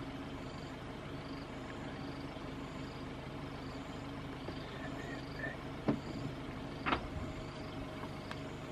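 A vehicle engine idling with a steady low hum, under a high, evenly pulsing chirp of insects. Two sharp knocks about a second apart come a little past the middle.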